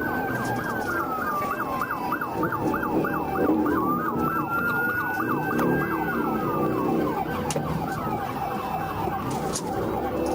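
Police car siren alternating between a slow wail and a fast yelp: a slow rise and fall, then rapid sweeps at about five a second, then another slow wail and fast sweeps again, over vehicle road noise.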